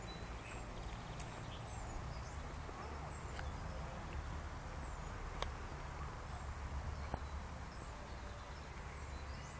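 Small birds chirping in the trees: short, high notes that slide downward, coming every second or so, over a steady low rumble. Two sharp clicks fall near the middle.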